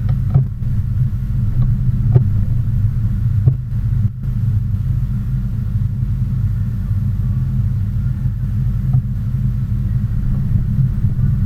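Steady low engine rumble of a motor vehicle, with a few faint ticks in the first few seconds.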